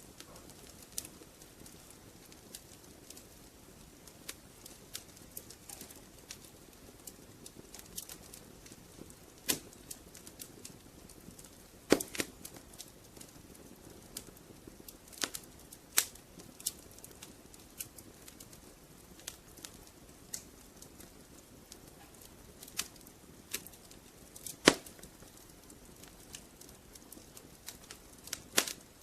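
Wood fire crackling in a fireplace: a soft steady hiss under irregular sharp pops and snaps, a few of them much louder than the rest.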